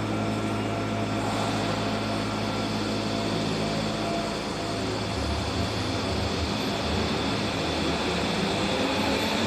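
Tobu 70000 series subway train pulling out of an underground station. A steady hum while it stands gives way, about five seconds in, to a low rumble that builds as the train gathers speed.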